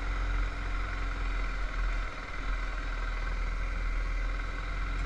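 Motorcycle engine running steadily while riding, over a heavy, even low rumble.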